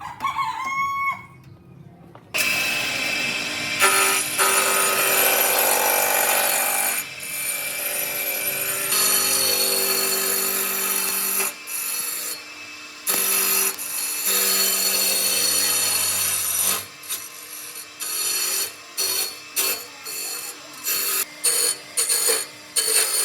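An electric power tool working on wood, running steadily from about two seconds in with a few brief pauses, then cutting in and out in short bursts near the end.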